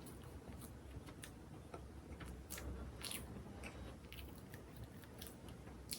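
A person chewing food close to the microphone, with irregular soft crunches and mouth clicks.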